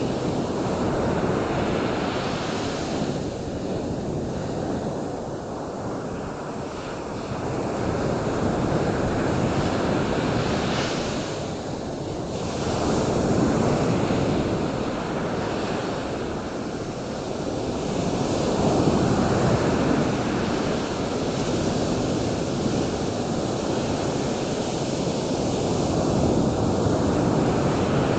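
Surf washing ashore: a continuous rushing noise that swells and eases in slow surges every several seconds.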